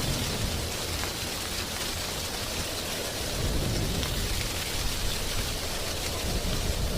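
Wind blowing through dry tree leaves: a steady rustling hiss with a gusty low rumble that dies down around the middle and builds again.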